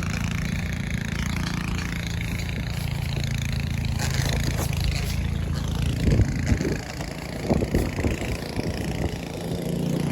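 A snow blower's small engine running steadily, with a few dull thumps about six to eight seconds in.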